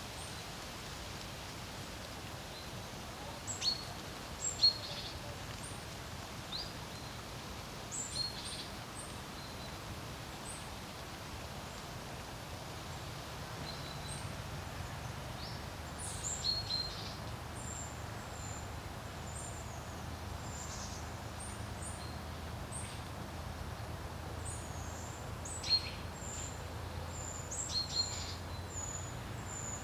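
Steady wind noise over a lake with a low rumble, and small birds chirping in short, scattered clusters of high notes.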